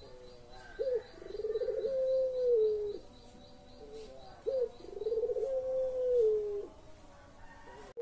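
Puter pelung dove cooing twice. Each call is a short sharp note, then a quick rolling stretch, then a long held coo that drops at the end.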